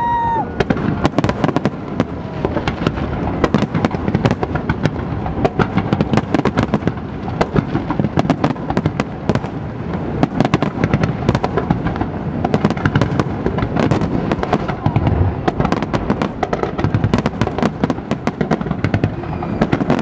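Fireworks display: a dense, continuous barrage of aerial shell bursts, many bangs and crackles a second with no pause.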